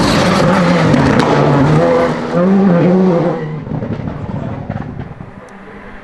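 Rally car engine at high revs, the pitch climbing and dropping through gear changes with a brief lift just after two seconds. About three seconds in it fades away as the car drives off.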